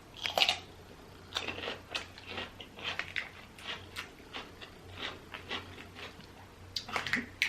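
Close-miked eating of boiled seafood: shells cracking and peeling, with chewing. It comes as an irregular run of short crackles and clicks, a couple each second.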